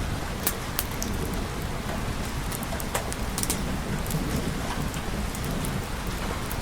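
Steady rain falling, with scattered sharp ticks of drops and a low rumble underneath.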